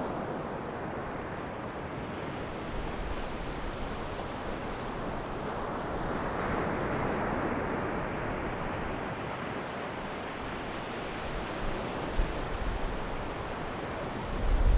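Sea waves washing on the shore, one wave swelling and breaking about halfway through. Low buffets of wind on the microphone come in near the end.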